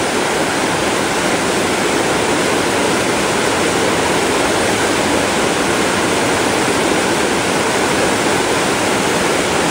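Steady rushing of fast-flowing creek water.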